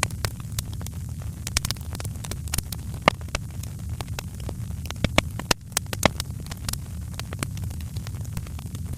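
Wood fire crackling: frequent sharp pops and snaps at irregular intervals over a steady low rumble, with a burst of louder pops about five to six seconds in.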